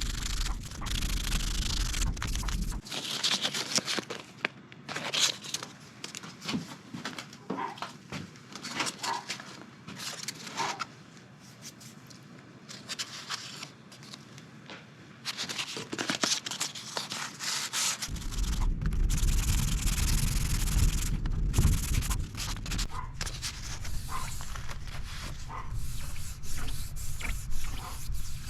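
Hand sanding a wooden chair rail with sandpaper, smoothing the glued repair: a run of irregular rasping strokes.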